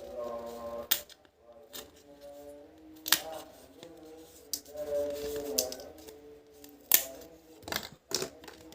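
Sharp clicks and taps of excavator puzzle-toy pieces being handled and fitted together, about five in all, the loudest about a second in and near seven seconds, over soft background music.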